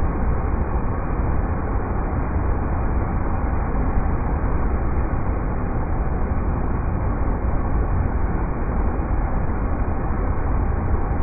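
River rapids rushing: a steady, unbroken deep roar of water, heaviest in the low end.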